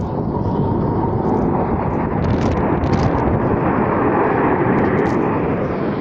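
Military aircraft flying over, a dense engine noise that swells over the first few seconds and eases near the end.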